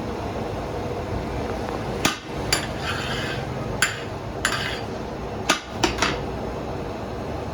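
About seven sharp metallic clanks at irregular intervals, like tools or metal pans knocking together, over a steady low background noise.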